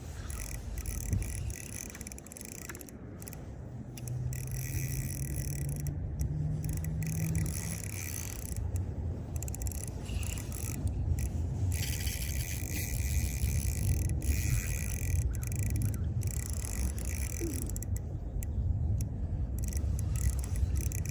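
Fishing reel's drag buzzing in stretches that start and stop as a big pike runs and takes line, over a steady low rumble.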